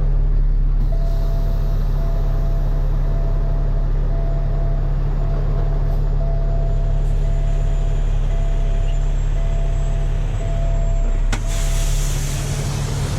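Heavy diesel tow truck's engine running steadily while a backup alarm beeps in a steady series of pulses. Near the end, a sharp click and a loud burst of air hiss from the air brakes.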